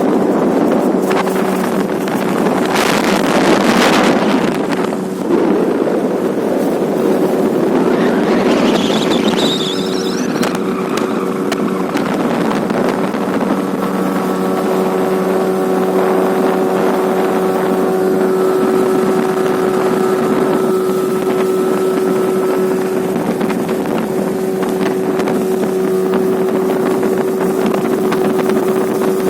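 Tohatsu 18 hp outboard motor running steadily under way, a constant even engine note, with wind buffeting the microphone and a strong gust about three seconds in.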